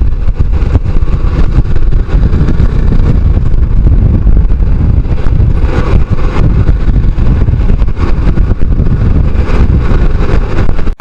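Motorcycle running on the move, with a steady, heavy wind rumble on the microphone.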